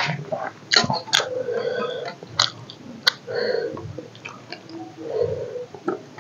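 Close-up chewing of rice and chicken curry, wet mouth sounds with irregular sharp lip smacks and clicks.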